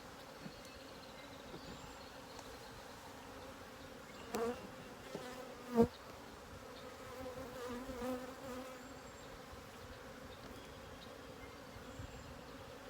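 Honeybees buzzing steadily around an open hive, with one bee buzzing close past the microphone about seven to eight seconds in. Two knocks from handling the hive, the louder one about six seconds in.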